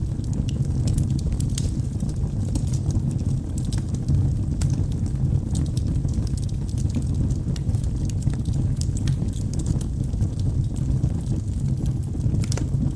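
Wood fire burning in a fireplace, with a steady low rumble of the flames and frequent irregular sharp crackles and pops from the logs.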